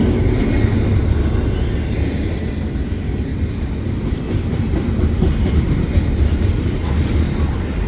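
Double-stack freight cars rolling past: a steady low rumble of steel wheels on rail.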